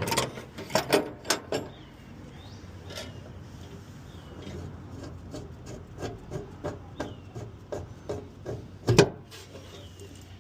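Irregular clicks, rubbing and knocks of hand work on a truck's swivel hose fittings, busiest in the first second or so, with one loud knock about nine seconds in.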